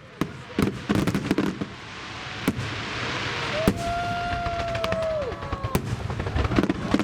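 Fireworks display: sharp bangs and the crackle of bursting shells, with a hiss swelling in the middle and a steady high tone lasting about two seconds before it bends down. The bangs come thick again near the end.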